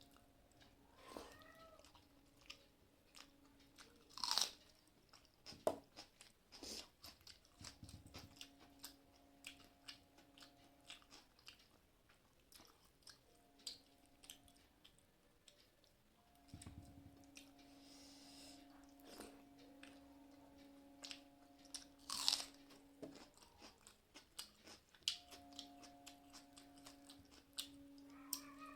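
A person chewing and crunching food close to the microphone, with many small clicks and smacks and a few louder crunches. A faint steady hum comes and goes several times underneath.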